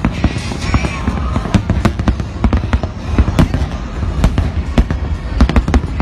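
Aerial fireworks shells exploding in rapid, irregular succession: many sharp bangs, several a second, over a continuous low rumble.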